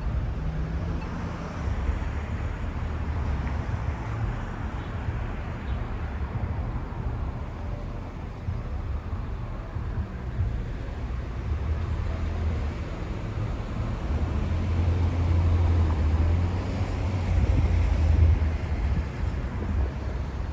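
Road traffic passing, with engines running and a low rumble that grows louder in the second half and peaks near the end.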